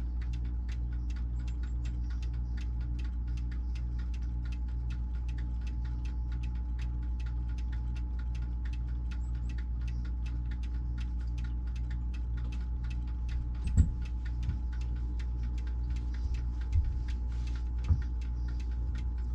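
Vehicle engine idling, a steady low hum, with a regular light ticking about two to three times a second. A few soft knocks come near the end.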